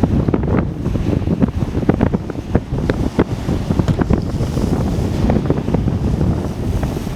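Strong wind buffeting the microphone, with storm waves surging and crashing onto the shore under a king tide and high winds. The wind makes a constant low rumble, broken by many short irregular gusts and splashes.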